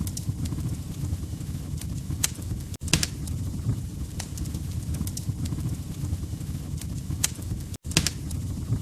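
Wood fire crackling in a fireplace: a steady low rumble of burning logs with sharp pops and crackles at irregular moments. The sound cuts out for an instant twice, about three seconds in and near the end.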